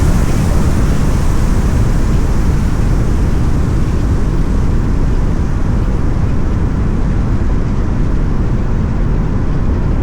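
Steady road and engine noise of a car driving on a wet road, a low rumble with tyre hiss over it.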